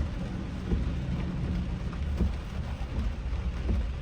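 Heavy rain on a moving car, heard from inside the cabin, over the low rumble of the car driving, with a few soft knocks scattered through.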